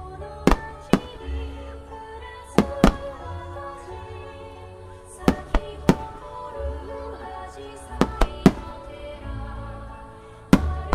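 Aerial firework shells bursting with sharp bangs, about a dozen in clusters of two or three, over music that plays throughout.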